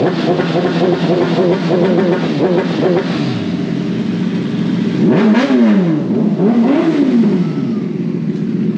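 Superbike engines running, the engine note rising and falling as revs change: a wavering rev for the first few seconds, then a sharp rise and fall about five seconds in and another near seven seconds.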